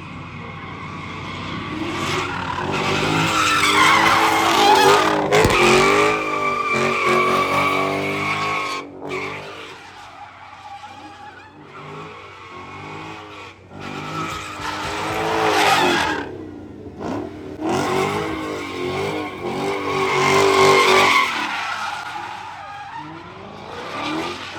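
A car doing burnouts and slides: its engine revving up and down over and over while the tyres squeal. It swells loudest a few seconds in and twice more later on.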